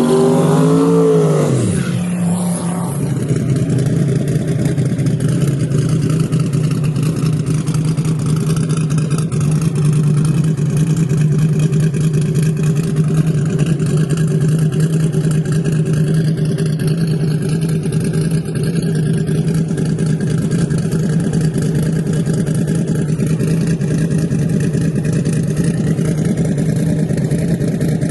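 A car engine revs up and drops back over the first two seconds, then idles at a steady pitch.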